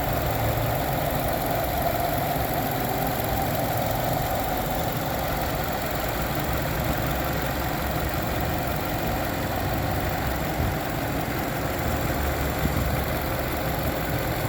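Car engine idling steadily, heard close up under the open hood.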